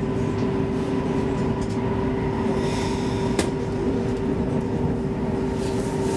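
Interior noise of an X10 electric commuter train under way: a steady low rumble with a constant hum. A single sharp click comes about three and a half seconds in.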